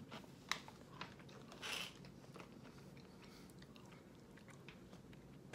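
A person chewing chocolate-covered s'mores snack mix pieces. There are a few sharp crunches in the first two seconds, then faint, quiet chewing.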